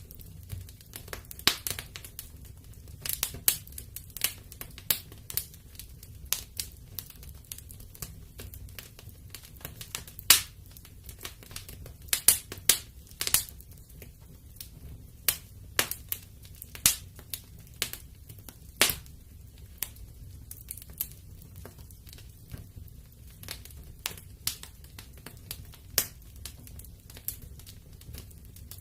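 Wood fire burning in a fireplace, crackling and popping at irregular intervals over a faint low rumble of the flames, with one louder pop about ten seconds in.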